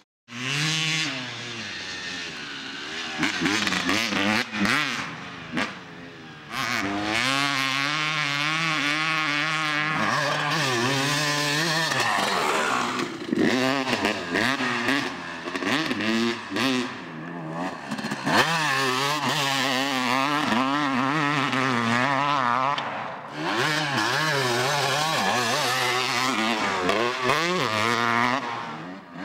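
Dirt bike engines revving hard, the pitch repeatedly rising and falling as the bikes accelerate, shift and back off around a motocross track.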